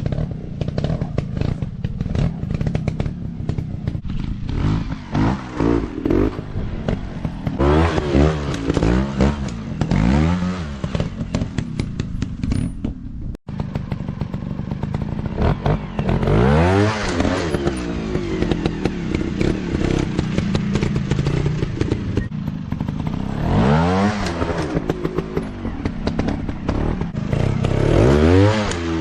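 Dirt bike engines revving up and falling back again and again in sharp climbs of pitch over a constant rattling engine note, with a brief break about halfway through.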